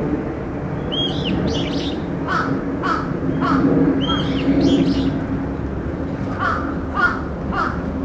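Wild birds calling over and over in woodland: short, harsh mid-pitched calls at uneven intervals, mixed with higher, arched call notes, over a low steady hum. The uploader takes this calling for an earthquake-warning alarm by the birds.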